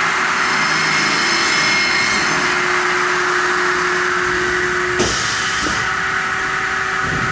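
Hydraulic aluminium-cutting circular saw machine running with a steady mechanical hum, with a single knock about five seconds in.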